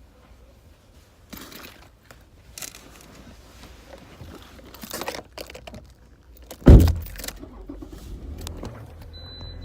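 Keys jangling and rustling handling sounds, then a car door shutting with a heavy thump about two-thirds of the way through, followed by a low steady hum.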